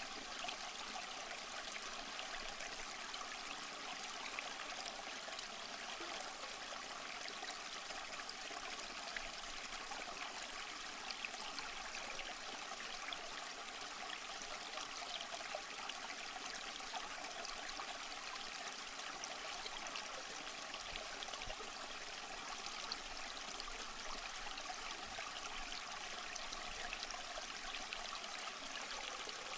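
A small stream flowing steadily over rocks, an even, continuous rush and trickle of water with small splashes.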